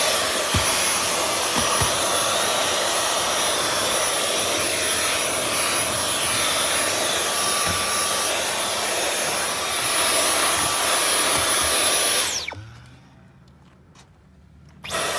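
Dyson V11 cordless stick vacuum running steadily with a high, thin whine over its airflow noise, with a few knocks of the nozzle against the cab interior. About twelve seconds in it is switched off and the motor winds down with a falling whine.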